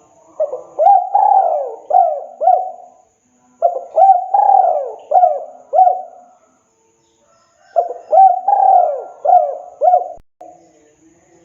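A spotted dove singing its cooing song, three phrases of several short coos each, a second or so apart.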